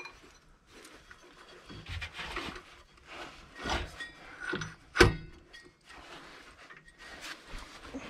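Handling noises: rubbing, rustling and scattered bumps, with one sharp knock about five seconds in that is the loudest sound.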